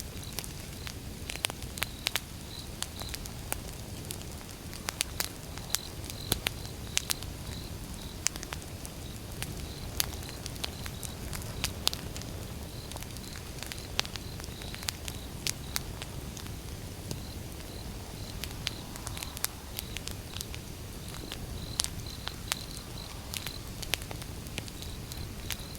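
Wood fire burning: irregular sharp crackles and pops of the burning logs over a steady low rumble of flame.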